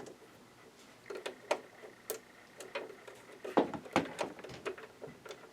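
Scattered light clicks and knocks of a screwdriver, screws and the sewing machine's plastic housing being handled during disassembly, with two louder knocks a little past halfway.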